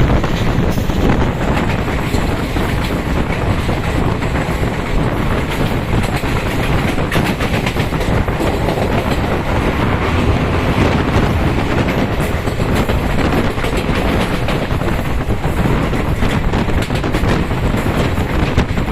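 Train running along the rails, heard from aboard: a loud, steady rumble with no breaks.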